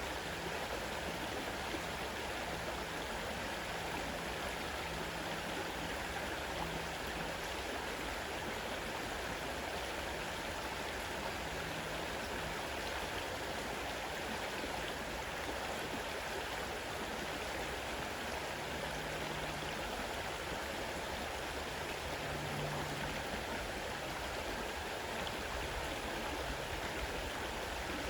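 Fast-running river water rushing steadily.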